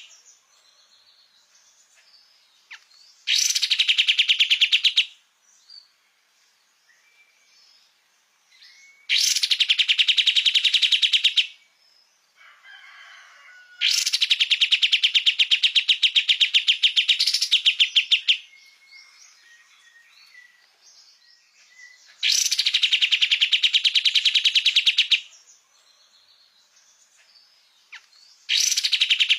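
Kapas tembak bird singing vigorously in repeated bouts of rapid, high trilled notes, each two to four seconds long. Short pauses with faint chirps fall between the bouts.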